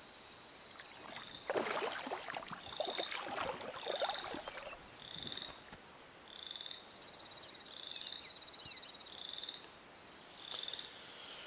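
Frogs calling in flooded marshland: a faint pulsed trill and short high chirps repeating about once a second, with a few scattered rustling noises in the first few seconds.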